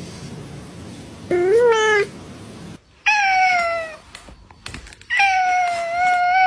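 Domestic cat meowing three times: a short meow, then a higher meow that falls in pitch, then a long, steady meow.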